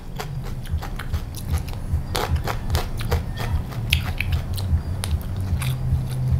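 A person chewing crunchy food close to the microphone: raw winged bean dipped in kho quẹt with hard dried shrimp. Crisp crunches and clicks ride on a regular rhythm of about three chews a second.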